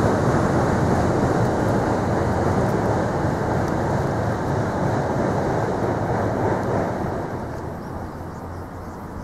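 Steam-hauled train rolling over a railway bridge: a steady rumble that fades away over the last couple of seconds as the train moves off.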